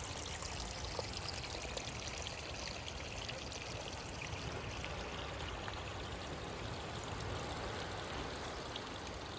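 Small hillside stream of water running steadily over the ground, a continuous trickling rush.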